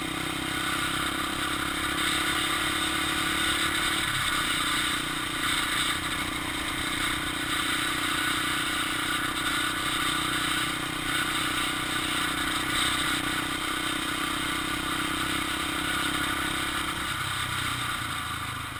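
Honda XR 250 Tornado single-cylinder four-stroke motorcycle engine running while ridden, its note steady over a constant rushing noise. The note breaks briefly about four seconds in and changes again near the end.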